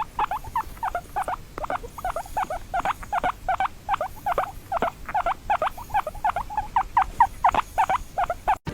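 A small animal chirping in a fast, steady series of short high chirps, about five a second, cut off abruptly near the end.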